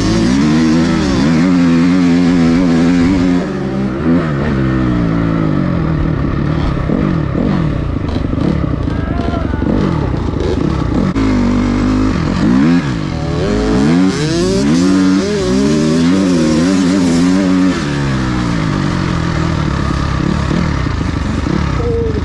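Dirt bike engine under riding load, its pitch climbing and dropping again and again as the throttle is worked.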